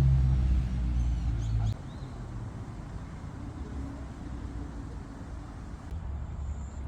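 Low steady vehicle rumble that cuts off suddenly about two seconds in, leaving a quiet outdoor background with a few faint bird chirps.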